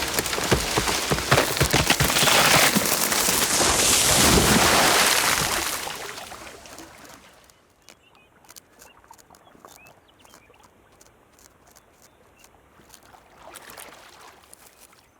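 Gnawed cottonwood tree coming down, its branches crackling and crashing in a loud, dense rush that swells and then dies away after about six seconds. A few faint clicks are left afterwards.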